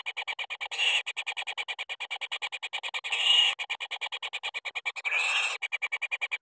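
An animal call: a rapid, even train of rasping pulses, about eight a second, broken by three louder unbroken buzzes about a second, three seconds and five seconds in.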